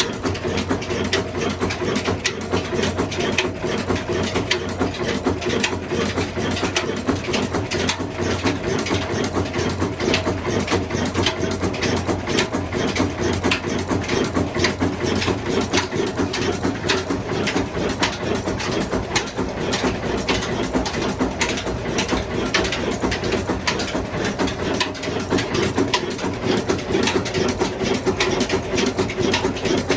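Old Ruston stationary diesel engine running steadily, with a rapid, even mechanical clatter over its hum.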